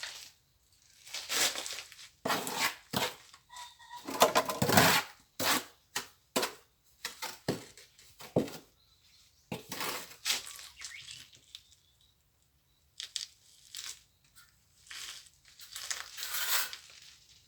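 Irregular scraping and rustling strokes, each lasting up to about a second, with short pauses between them.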